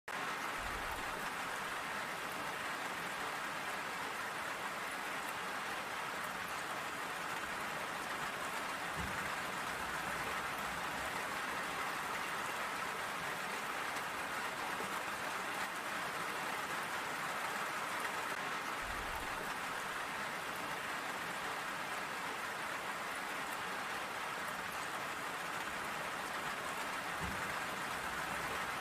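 Steady rainfall, drops pattering on surfaces as an even, unbroken hiss, with a few faint low thumps.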